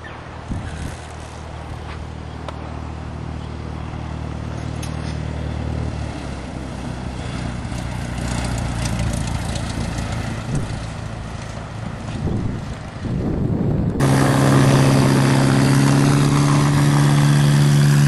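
Small engine of a home-built autogiro running at a steady idle, with wind noise. About three-quarters of the way through it turns abruptly louder and steadier, running on with a strong low hum.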